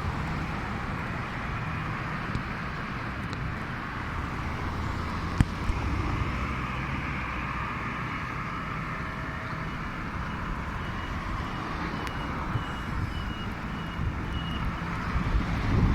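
Steady street traffic noise, with cars and trucks passing. There is a sharp click about five seconds in, and a faint string of short high beeps near the end.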